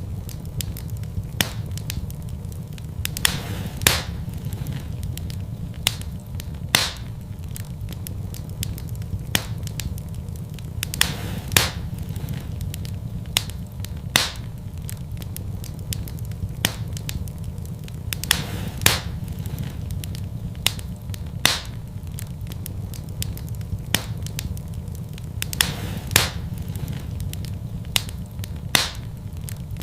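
Fireplace fire crackling: sharp pops every second or two over a steady low rumble of the flames.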